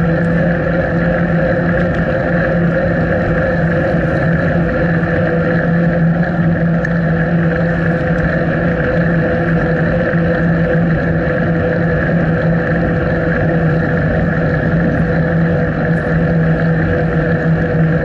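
Wind and riding noise on a bicycle-mounted action camera while cycling: a steady, loud rushing with a constant low hum underneath that does not change.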